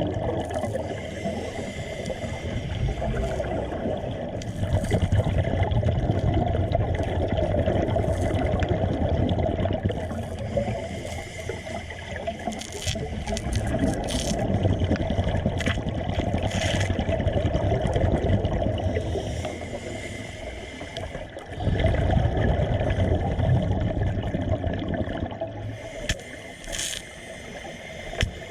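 Water sloshing and gurgling, surging up and down, with scattered sharp clicks.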